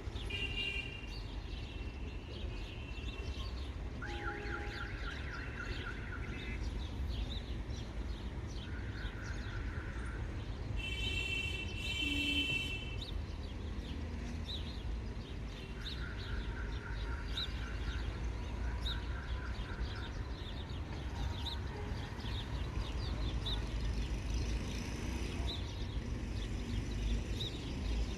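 Birds calling outdoors: many short repeated chirps and a few pulsed, trilled phrases, with one louder, fuller call about eleven seconds in, over a steady low rumble.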